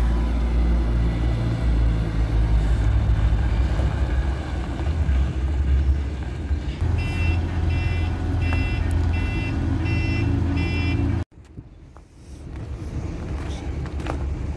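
Heavy diesel truck engine running with a deep rumble, while a reversing alarm beeps steadily, about one and a half beeps a second, from about seven seconds in. The sound cuts off abruptly near eleven seconds, leaving quieter yard sound.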